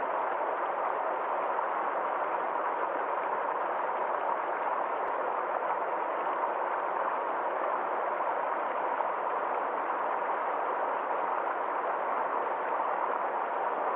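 Small forest stream flowing: a steady, unbroken rush of water.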